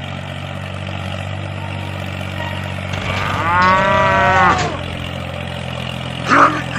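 A cow mooing: one long, arching moo, with another shorter moo starting near the end, over a steady low hum.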